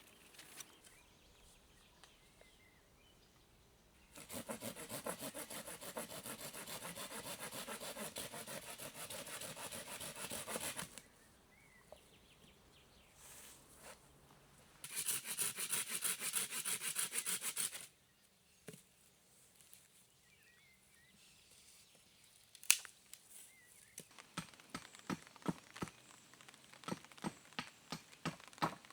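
A hand saw cutting through wood in two long bouts of quick, even strokes. Then a sharp knock, followed near the end by a run of regular chopping knocks on wood.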